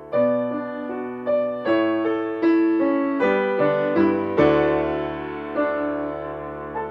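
Solo piano playing a slow intro phrase of chords, struck one after another and left to ring, ending on a long held chord.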